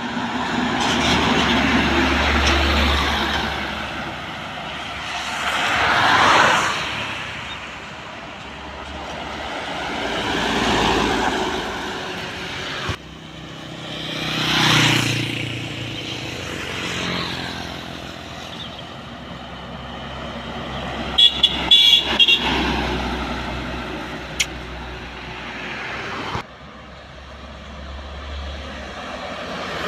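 Trucks passing one after another on a highway, each swelling and fading away. Around two-thirds of the way through, a vehicle horn sounds in several short loud blasts.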